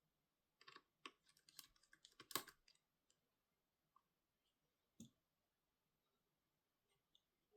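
Light clicks and taps of small hard parts and tools being handled during laptop repair work. There is a quick cluster in the first three seconds, the loudest about two and a half seconds in, then one more tap about five seconds in.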